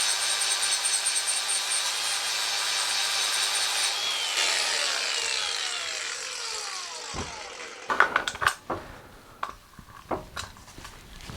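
A grinder grinding metal, taking a burr off the scooter's axle threads and nut, then switched off about four seconds in, its pitch falling as it spins down. Then a few sharp knocks and clanks of metal parts being handled.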